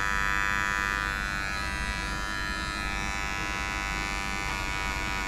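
Quiet electric pet grooming clippers running with a steady buzz while trimming matted hair close to the skin.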